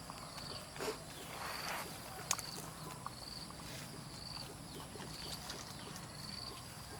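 Quiet outdoor ambience: a short, high chirp repeats about once a second, with a few light rustles and one sharp click.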